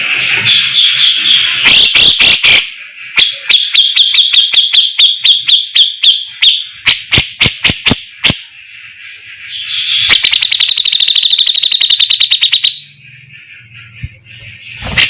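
Cucak jenggot (grey-cheeked bulbul) singing loudly in chattering phrases of sharp repeated notes, several a second, with a fast even trill of about ten notes a second from about ten seconds in until near the end, when the song drops away.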